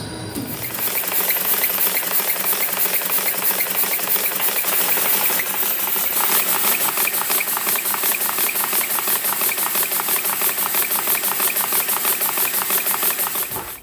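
A miniature model engine running fast with a rapid, steady mechanical beat. It builds up about a second in and cuts off suddenly at the end.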